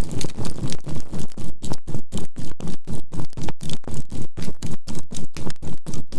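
Synthesized 528 Hz healing tone with a binaural beat, throbbing evenly about five times a second over the noise of burning charcoal.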